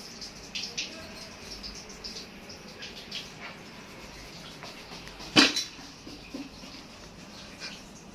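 Scattered light clicks and scraping from hand work on washing-machine parts, with one sharp knock about five seconds in.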